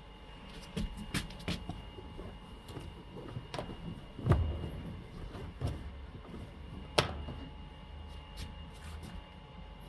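Knocks and clicks of a Fisher & Paykel MW059 washing machine being loaded with clothes, with two sharper thumps about four and seven seconds in.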